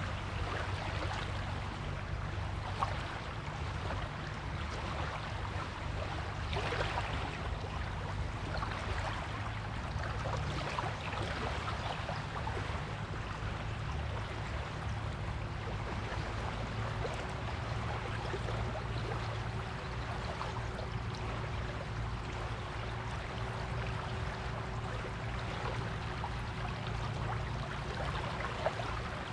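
Waves washing on a beach: a continuous rush of water. Under it runs a steady low hum, and a faint steady tone comes in about halfway through.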